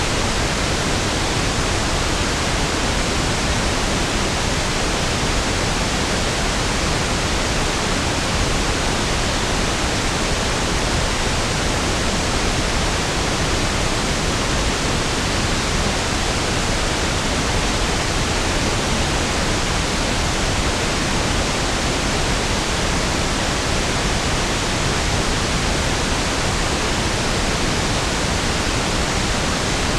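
Steady pink noise (1/f noise): an even, unchanging hiss with equal energy per octave, softer in the highs than white noise.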